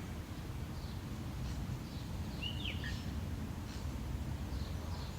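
Outdoor ambience: a steady low rumble with a small bird calling. There is one clear down-slurred chirp about halfway through, and a few faint high chirps.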